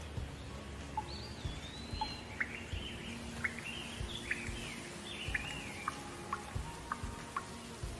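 Birdsong: a long high whistle in the first two seconds, then a run of quick, sharp chirps and whistles. Faint steady hum and soft low thumps lie underneath.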